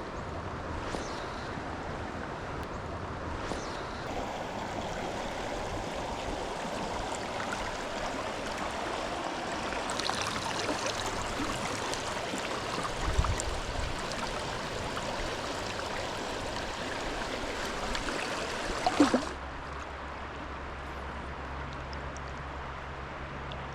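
Steady rushing of creek water flowing over rocks. There is a low bump about 13 seconds in, and a sharp knock near 19 seconds, after which the water sound is quieter.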